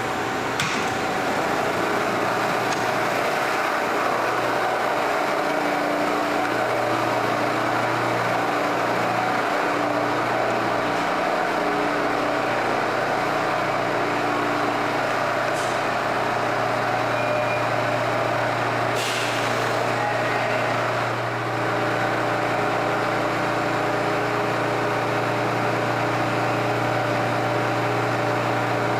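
R179 subway train running on the line: a steady rumble with a humming motor tone that cuts in and out and settles about two-thirds of the way through, a few light clicks, and a short hiss a little later.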